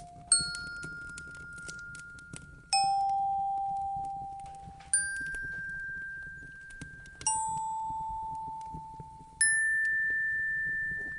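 Slow chime-like notes, struck one at a time about every two seconds and each left to ring out, alternating higher and lower in pitch, over the faint crackle of a wood fire.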